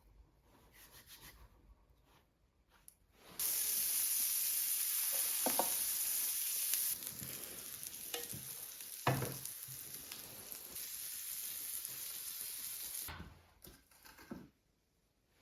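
A loud sizzling hiss starts suddenly about three seconds in and cuts off suddenly near the end, with a few short knocks during it.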